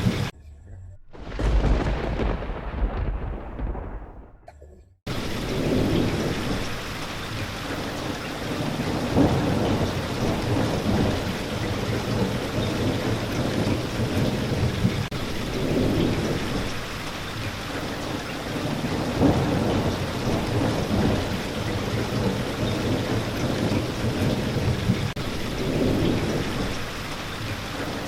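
Steady rain with low rolling thunder. Near the start the rain drops out and a single thunder rumble swells and fades over a few seconds, then the rain cuts back in abruptly about five seconds in.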